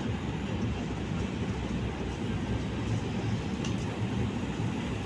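Train running, a steady low rumble without distinct wheel clicks.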